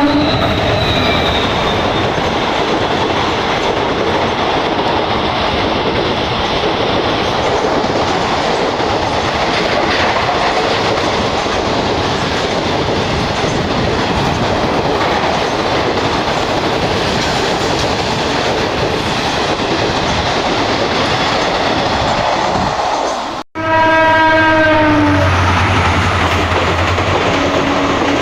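The horn of a WDG4 EMD diesel locomotive cuts off as the train runs past, and a long, steady clatter and rush of coaches on the rails follows. Near the end, after an abrupt break, another diesel locomotive sounds its horn twice over a low engine drone.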